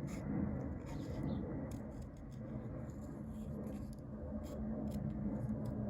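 Soft rustling and light ticking of paper and small craft tools being handled on a desk.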